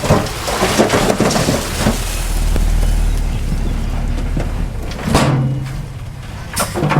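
Heavy diesel earthmoving machinery running under load, with a steady low rumble. A rushing, crackling noise fills the first couple of seconds, and the engine surges briefly twice near the end.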